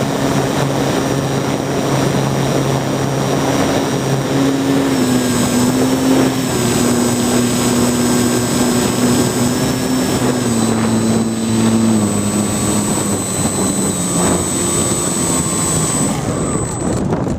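Small UAV's motor and propellers running, their pitch stepping up and down with the throttle and dropping in steps over the second half, over heavy wind noise.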